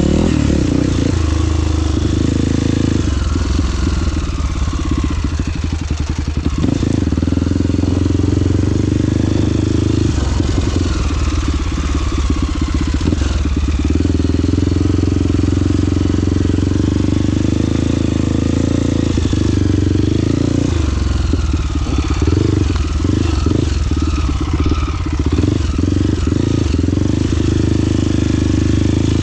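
Off-road trail motorcycle engine running steadily.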